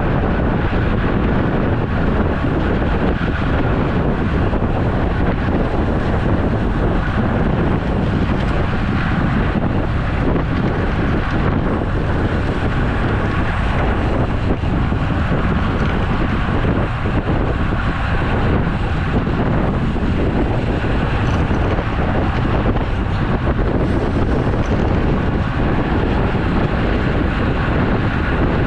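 Wind buffeting a camera microphone carried on a moving road bike: a loud, steady rush of noise.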